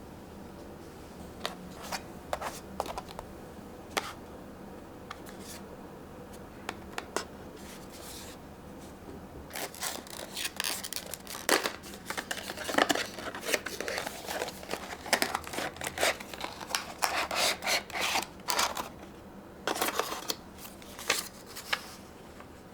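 Crisp handling sounds in a small room: a few scattered sharp clicks, then from about nine seconds in a dense, rapid run of crackling clicks and snips that stops about a second before the end.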